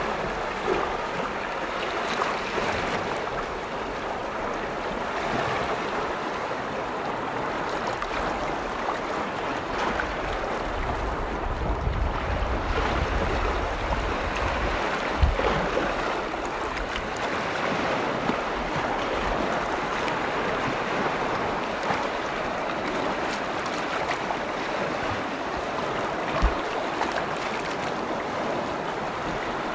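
Lake waves washing steadily, a continuous rush of water. Wind rumbles on the microphone for a few seconds around the middle, with a couple of short thumps later on.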